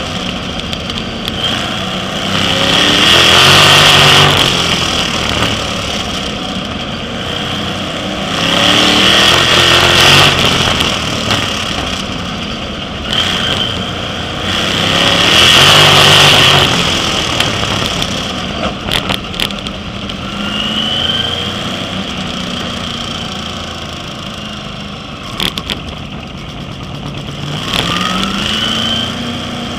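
Sprint car engines racing on a short oval. The sound swells loud about every six seconds and eases between, three times, then runs lower and steadier through the second half, with a couple of rising revs near the end.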